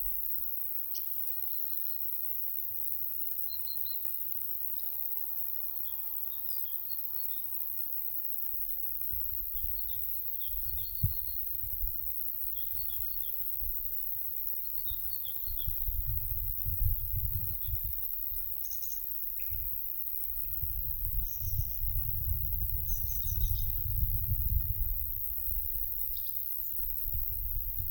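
Small songbirds chirping and twittering in the surrounding bushes and trees, with short high notes scattered through the first half and a few sharper calls later. Gusts of wind buffet the microphone as low rumbles, growing strong about halfway through and again near the end.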